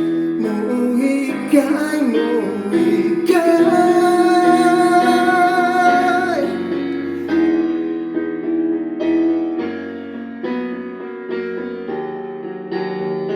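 A female voice sings over a piano accompaniment, holding one long note with vibrato that ends about six seconds in; after that the piano plays on alone, note by note.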